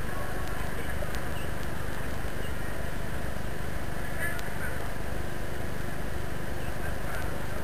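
Steady outdoor background noise, mostly a low rumble like city traffic or wind on the microphone, with a few faint, short, high chirps now and then.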